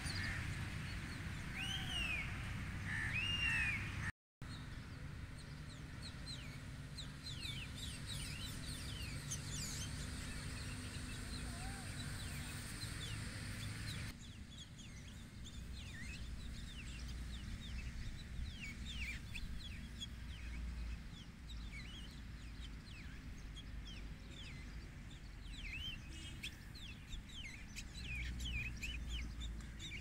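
Birds chirping and calling in the trees: many short, quick, high chirps throughout, with a few looping calls in the first few seconds, over a steady low background rumble. The sound cuts out for a moment about four seconds in.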